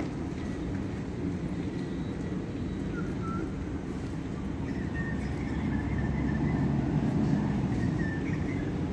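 Sydney Trains Waratah electric train moving at the platform, a steady low rumble that grows louder in the second half, with a faint high whine over it.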